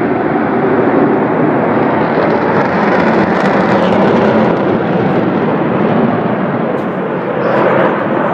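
Aircraft engine noise from a plane in flight, a loud steady rush that holds level throughout.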